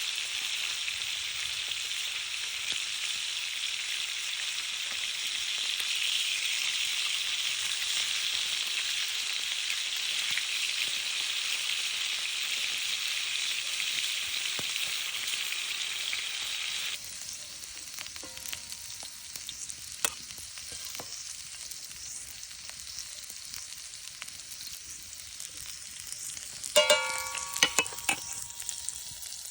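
Bacon-wrapped venison medallions frying in a pan over a campfire, with a steady, dense sizzle. About 17 seconds in, the sizzle drops suddenly to a quieter hiss with a few clicks. Near the end comes a short, loud rattle with ringing metallic tones.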